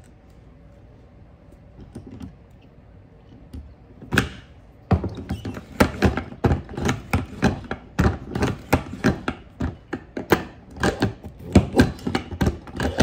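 Neil Enterprise button maker being worked over and over, its handle and freshly lubricated dies clunking and clattering about two or three times a second, as the die that had been sticking on every pull now moves freely. A short hiss comes about four seconds in, before the knocking starts.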